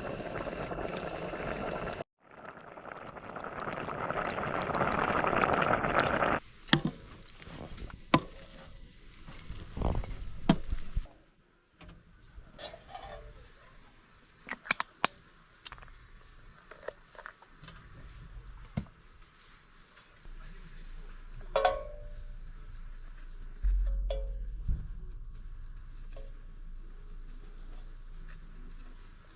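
Crickets trilling steadily in a high, even tone, under scattered sharp clicks and knocks of handling and a few seconds of rushing noise early on.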